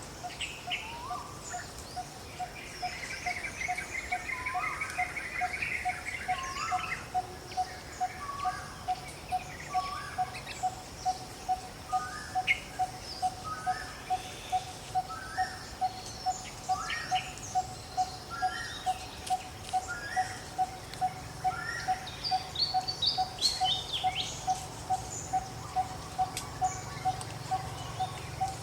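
Forest ambience: several birds calling with short rising chirps, over a single clear note repeated steadily about twice a second.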